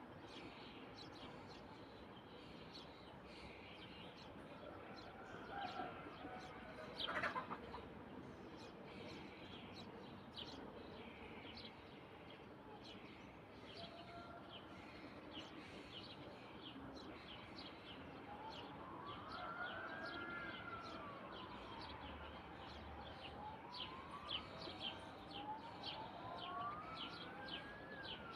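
Small birds chirping over and over. In the second half a slow wail rises and falls in pitch again and again, like a distant siren.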